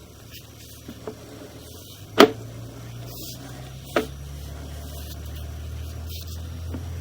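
Sewer inspection camera rig being worked: a few sharp clicks and knocks, the loudest about two seconds in, over a low steady hum that grows slightly louder.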